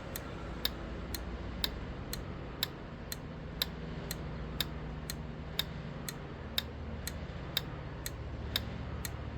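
12-volt relay clicking on and off about twice a second in a steady rhythm as a relay tester cycles it. The regular clicking is the sign of a good, working relay.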